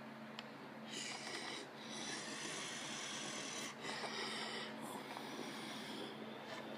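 Ryko Soft Gloss automatic car wash running: a steady machine hum under a hissing spray-and-brush noise that swells and drops back every second or so.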